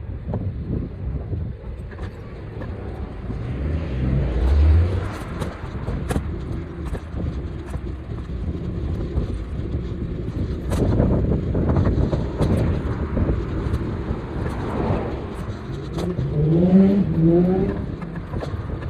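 City street traffic and steady low road and wind rumble, heard while cycling. A short pitched sound comes about four seconds in, and a wavering pitched sound near the end.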